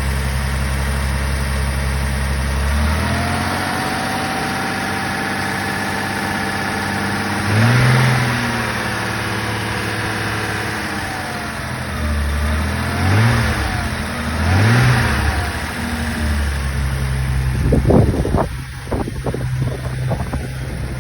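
Toyota Celica Supra's 5M straight-six engine running, revved briefly three times, at about 8, 13 and 15 seconds, each rev rising and falling back. Several sharp knocks follow near the end.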